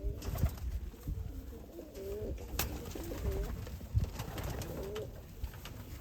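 Homing pigeons cooing in a loft: several rolling, warbling coos one after another, with a sharp click near the middle and a dull bump a little later.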